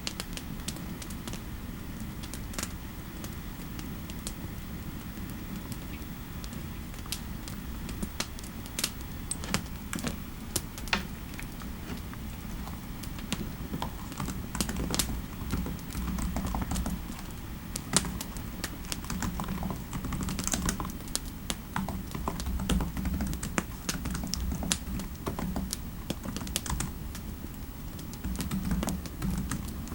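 Typing on a computer keyboard: scattered keystrokes at first, coming thicker and faster from about halfway through. Underneath is a steady low rumble of fireplace ambience.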